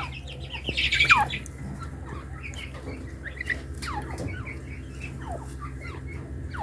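Pet partridges calling: a loud harsh squawk with a steeply falling note about a second in, then softer short chirps and falling calls, over a low steady hum.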